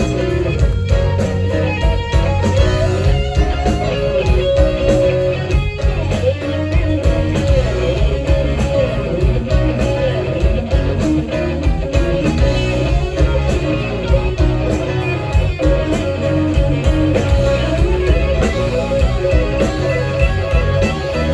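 Live band playing an instrumental passage: an electric guitar carries the melody over bass and a steady drum beat.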